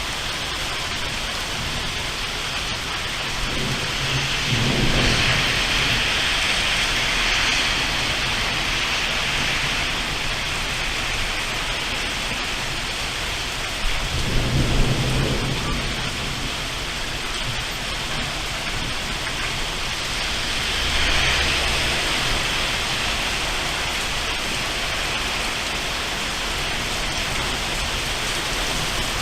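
Heavy rain falling steadily through a thunderstorm, with rolls of thunder rumbling in twice; the second, about halfway through, starts with a sharper crack.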